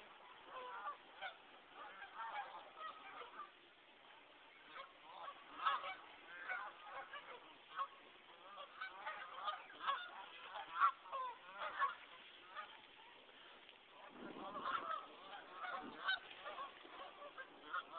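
A flock of geese honking, in spells of overlapping calls with short lulls between them. Two low rumbles come in late, under the calls.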